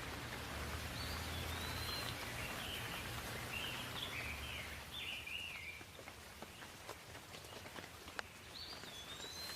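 Steady rain with scattered drips, and a songbird singing a run of quick chirping, warbling notes over it for the first half. A few drops tick sharply about eight seconds in, and a short whistled phrase comes near the end.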